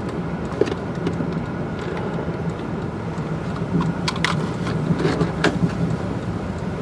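Steady low hum of a vehicle's running engine heard from inside the cabin, with a few sharp clicks about two-thirds of the way through.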